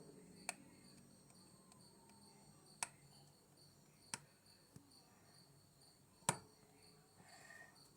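Near silence broken by four faint, sharp clicks at irregular intervals, over a faint steady high-pitched tone.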